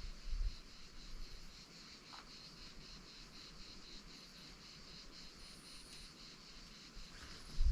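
Crickets chirping in a steady, high trill, with a low thump shortly after the start and another at the very end.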